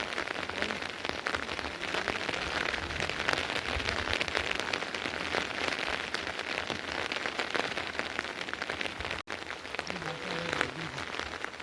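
Steady rain falling, a dense patter of drops on surfaces. It cuts out for an instant about nine seconds in.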